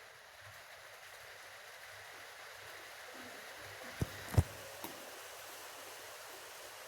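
French fries sizzling in hot oil with a steady, low hiss. A utensil knocks against the pan three times in quick succession about four seconds in, the second knock the loudest.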